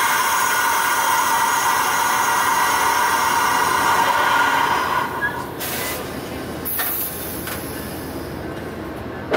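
Amtrak California Zephyr passenger train rolling slowly along a station platform, with a steady high-pitched squeal over the rumble of the cars. The squeal stops about five seconds in and is followed by a few short, sharp hisses of air.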